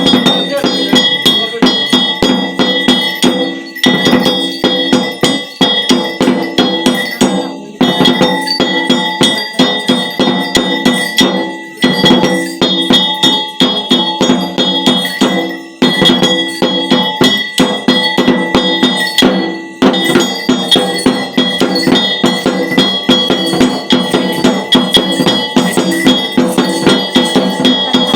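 Metal bells rung rapidly and continuously: quick repeated strikes with ringing tones that hang on, broken by short pauses every few seconds.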